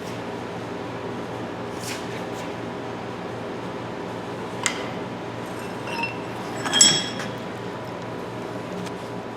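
Metal tools being handled against each other, filing just paused: a sharp tap a little before five seconds in, a faint ring about a second later, then a louder metallic clink that rings briefly near seven seconds in. A steady low hum runs underneath.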